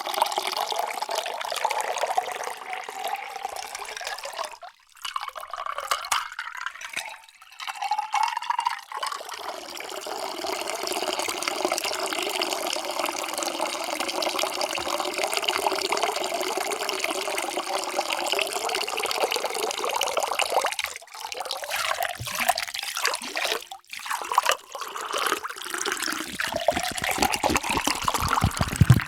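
Water being poured into a vessel in several pours, broken by short gaps. Near the end the pitch rises as the vessel fills.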